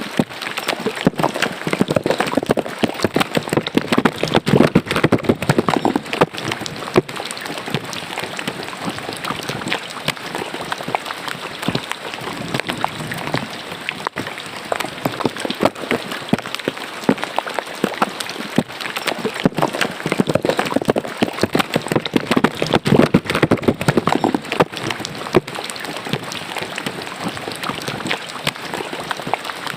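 Rain pattering steadily and rainwater running in a roadside gutter, with a dense spatter of drops.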